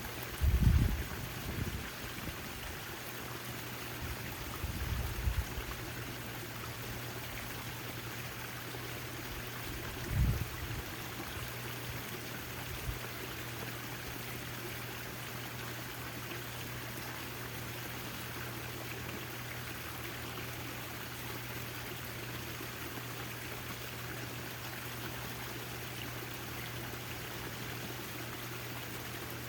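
Backyard fountain's water splashing and trickling steadily, with a steady low hum underneath. Three brief low rumbles, near the start, about five seconds in and about ten seconds in, are the loudest sounds.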